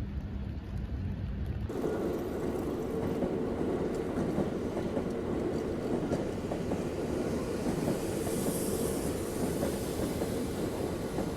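A train running on rails, with a steady rumble and clatter that begins abruptly about two seconds in, taking over from a lower rumble.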